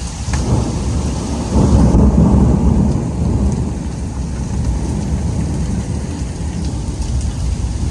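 A long roll of thunder, building about a second and a half in and loudest around two to three seconds, then fading, over steady rain.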